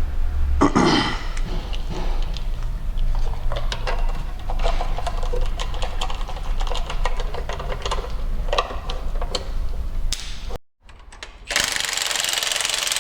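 Irregular metallic clicking and knocking of hand tools working on engine parts. After a sudden cut about ten and a half seconds in, a power tool runs steadily.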